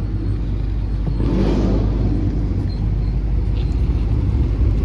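A car's engine running with a steady low rumble, a brief swell of noise about a second and a half in.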